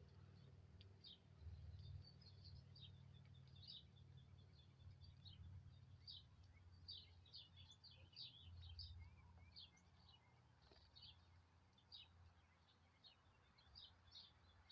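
Faint, high-pitched chirping of small birds, many quick calls in a row, over a low background rumble that swells twice.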